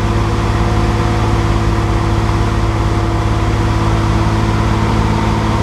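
Datsun 280Z's straight-six idling steadily, still cold shortly after a cold start.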